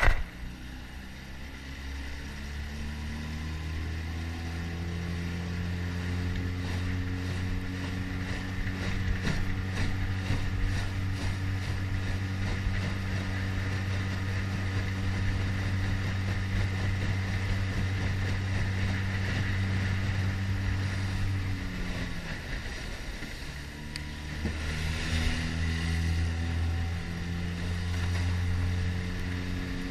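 Mercury 9.9 hp outboard motor pushing a jon boat: it speeds up over the first few seconds, rising in pitch, then runs steadily at speed. About 22 seconds in, the throttle drops off briefly and the motor revs back up.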